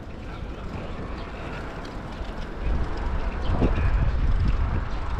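Wind buffeting an action camera's microphone while riding, over a low rumble of road noise, growing louder about three seconds in.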